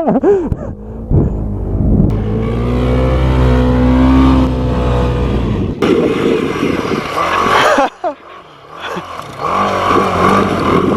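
Snowmobile engine revving, its pitch climbing steadily for a few seconds as the sled accelerates. It breaks off suddenly about six seconds in, and engine sound carries on, dropping away briefly near eight seconds before rising again.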